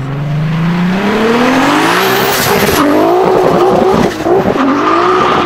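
A Volkswagen Jetta Mk4 (Bora) accelerating hard: the engine revs climb steeply, drop briefly at each gear change and climb again. A high steady squeal comes in near the end.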